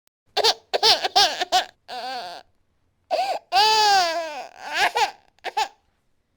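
Baby crying in a string of short, breathy sobbing cries, then a longer drawn-out wail about three seconds in and two or three brief cries before it stops near the end.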